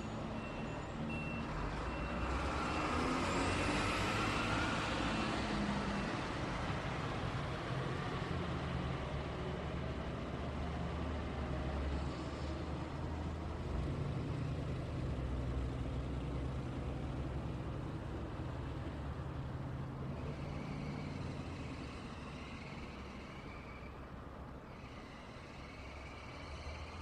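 Steady road traffic: a continuous rumble of engines and tyres from passing cars and trucks. A vehicle passes louder a few seconds in with a rising whine.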